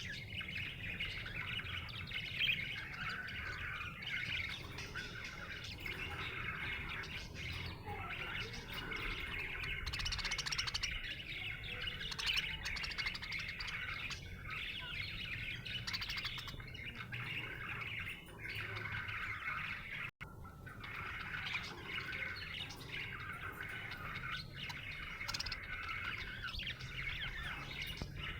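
Budgerigar chirping continuously in a dense, unbroken stream of short chirps, briefly cut off for a split second about twenty seconds in.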